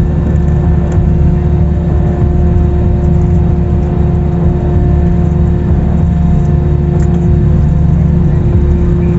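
Steady low rumble of an airliner heard inside the cabin as it taxis after landing, with a constant hum running through it.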